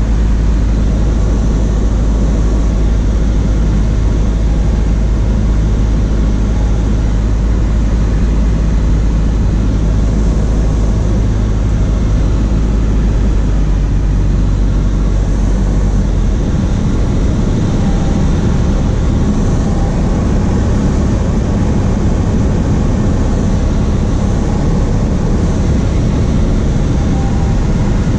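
Cessna 152's four-cylinder Lycoming O-235 engine and propeller running steadily in flight. The deepest tone changes a little past halfway through.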